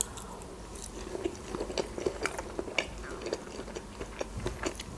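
Close-miked chewing of a bite of sausage: soft, irregular wet clicks and smacks of the mouth working the food.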